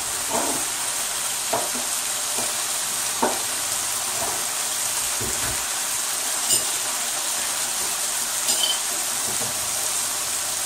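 Turmeric-seasoned chicken breast strips sizzling steadily in a frying pan, with a few light clicks.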